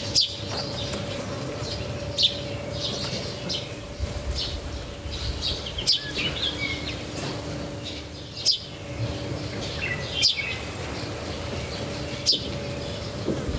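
Small birds chirping and calling, with a sharp, louder chirp about every two seconds among softer twitters. A faint steady hum runs underneath.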